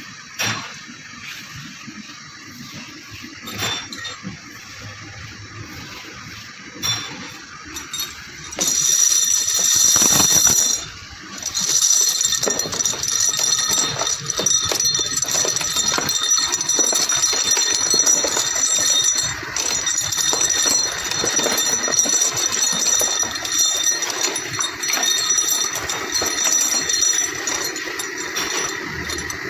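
Workshop machinery: a few sharp clicks, then a machine starts running with a steady high whine over clattering noise about nine seconds in, dipping briefly around eleven seconds before carrying on.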